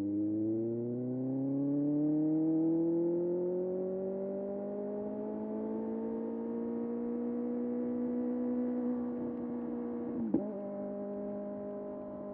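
2025 Kawasaki ZX-6R's 636 cc inline-four engine pulling through a gear, its pitch rising steadily over the first six seconds and then holding. About ten seconds in there is a brief blip in the engine note, then it runs on at a steady pitch.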